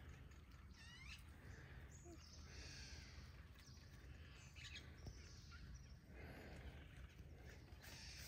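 Quiet outdoor ambience: faint birds chirping and calling now and then over a low rumble.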